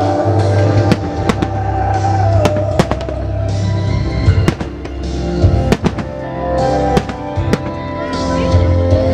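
Fireworks shells bursting and crackling again and again, over loud musical-theatre music played for a music-synchronised display.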